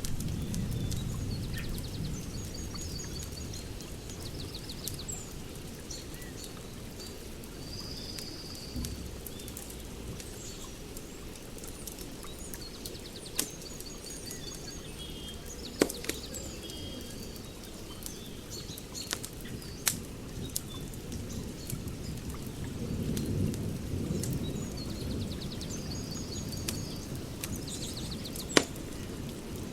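Wood fire crackling in a fire pit, with a low rumble and a handful of sharp pops, the loudest near the end. Birds chirp and trill in the background.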